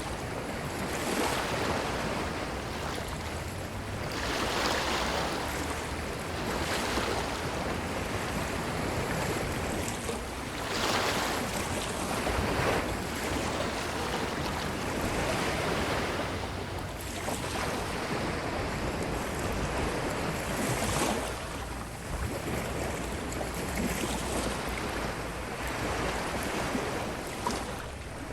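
Ocean surf breaking and washing up a beach, swelling and easing every few seconds as each wave comes in.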